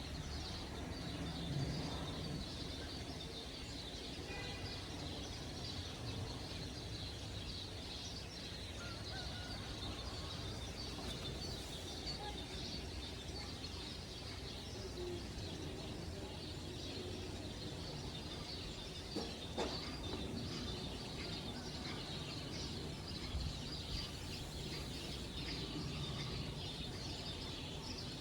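Birds chirping and singing continually, many quick high calls overlapping, over a steady low background hum.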